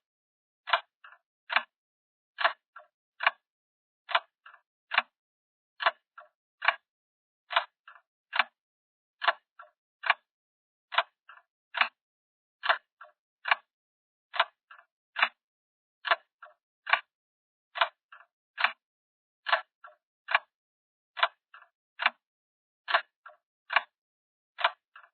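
A ticking sound effect: a steady run of short, sharp clicks, a loud one a little more often than once a second with fainter clicks in between.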